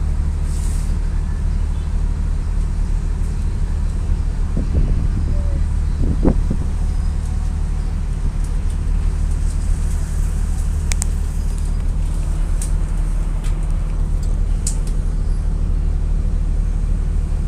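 Volksbus 17.230 EOD bus diesel engine running steadily with a low, even drone, with a few light clicks and rattles over it.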